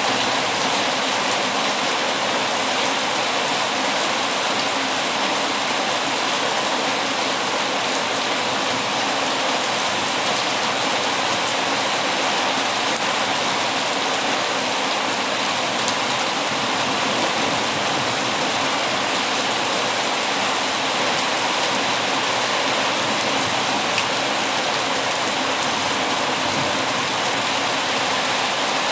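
Heavy rain falling, a steady dense hiss with no pauses or changes.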